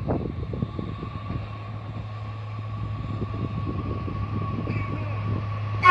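Steady low hum of an approaching train, with a fainter steady high tone above it. Wind buffets the microphone in the first second or so.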